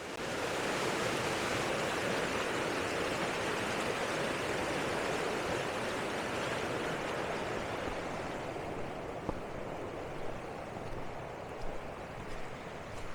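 A creek rushing steadily. It eases a little after about eight seconds, with a few faint clicks.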